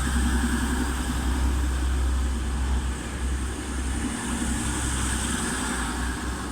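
Diesel engines of two coupled Class 185 diesel multiple units pulling away from the platform: a steady deep engine drone that eases a little near the end.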